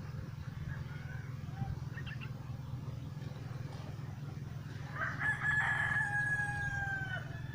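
A rooster crowing once about five seconds in: one long held call that drops in pitch at the end, over a steady low hum.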